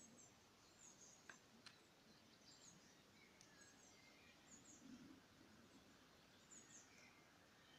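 Near silence, with faint, scattered bird chirps and two faint clicks about a second in.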